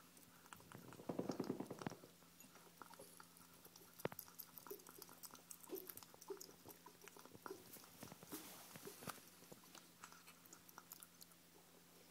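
Ferrets chewing and biting on pieces of chicken: irregular small clicks and bites, with a louder spell of chewing about a second in and a sharp click about four seconds in.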